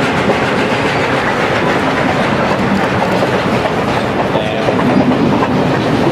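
Passenger train rolling past, its car wheels clicking over the rail joints in a steady loud rumble, with no whistle.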